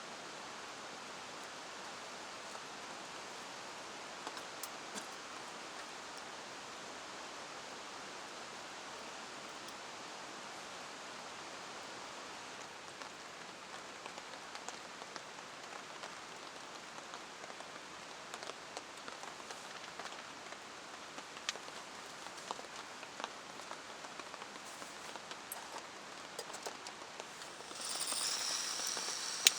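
Steady rain with scattered single drops ticking, the ticks growing more frequent through the second half. Near the end a louder, higher hiss sets in.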